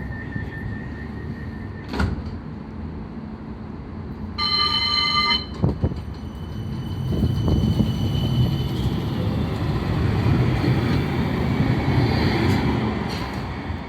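Inside a Birmingham tram (CAF Urbos 3 on 750 V DC): steady running rumble, a click about two seconds in, and a one-second warning tone a little after four seconds. The noise then builds as the tram gathers speed.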